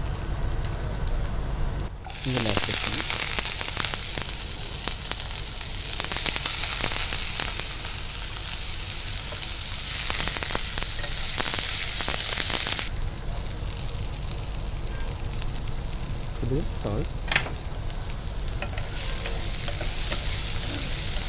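Wet cauliflower florets sizzling in hot oil in a frying pan. The sizzle starts suddenly and loudly about two seconds in, as the florets go into the oil, stays strong for about ten seconds, then settles lower and swells again near the end. A spatula clicks and scrapes against the pan as they are stirred.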